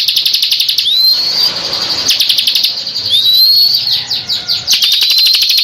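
Bar-winged prinia (ciblek) calling: fast runs of sharp repeated notes, broken by rising whistled notes about every two seconds.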